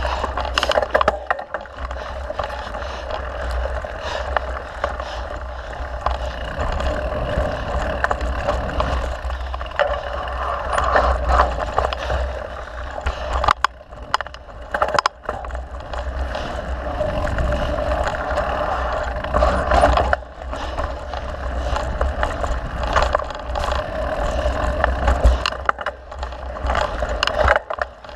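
A mountain bike being ridden along a dirt trail: a steady noise of the tyres rolling, with the chain and frame rattling and clicking over the bumps and a low rumble underneath. The noise drops away briefly a few times, near the middle and again later.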